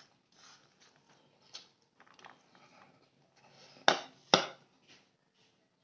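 Spoon clinking against a plate while eating: faint small scrapes, then two sharp clinks about half a second apart.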